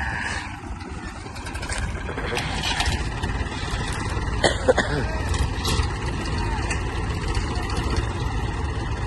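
Tractor diesel engine running under load: a steady low rumble, with a couple of sharp knocks about four and a half seconds in.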